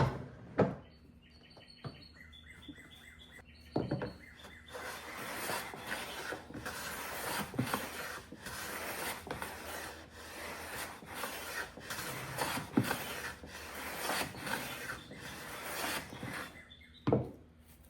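A #5 1/2 jack bench plane taking fine shavings off a walnut board, in a long run of repeated scraping strokes. A few knocks come before the strokes and one near the end, and there are short high chirps near the start.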